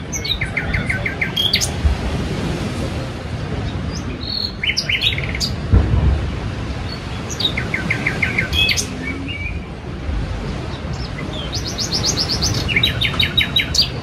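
Small songbirds chirping in four short trilled phrases of rapid repeated notes, over a steady low rush of wind and surf.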